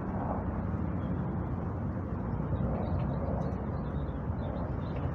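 City park ambience: a steady low rumble of distant traffic, with faint bird chirps coming in about halfway through.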